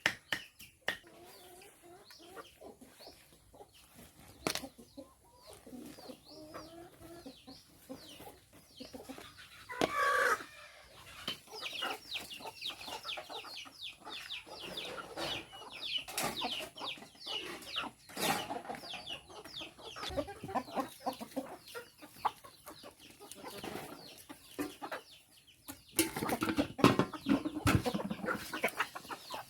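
A flock of chickens clucking and calling, with many short, high, falling calls overlapping for most of the time. A louder burst comes about ten seconds in, and there are a few sharp clicks.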